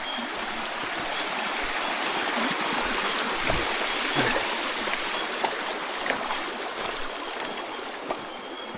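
Creek water rushing over rocks: a steady rush that swells in the middle and eases toward the end, with a few scattered small knocks.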